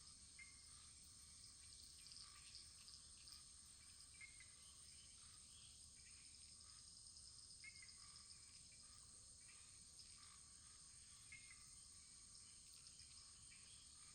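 Faint crackling of a wood fire: small irregular pops and ticks over a steady high hiss.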